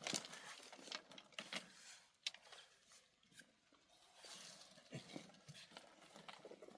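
Near silence with faint, scattered clicks and taps, a few a second at irregular spacing.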